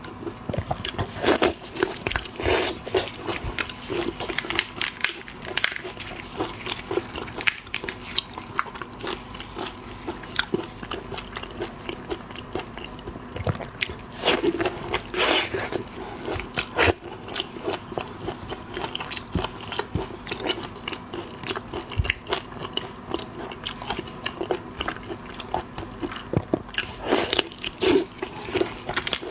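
Close-miked eating of shellfish: biting and chewing with crunching and crackling of shell, many short wet clicks throughout.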